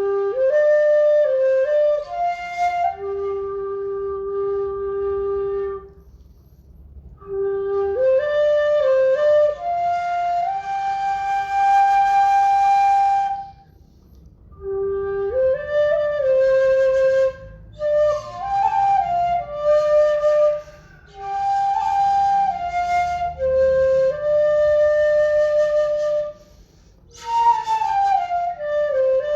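Bamboo flute playing a slow, soothing melody in several phrases of held and gliding notes, with short pauses between phrases.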